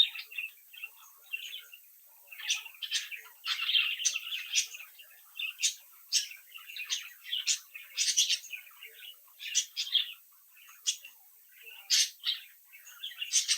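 A group of budgerigars chirping and chattering, with many short, sharp chirps and warbling calls overlapping throughout.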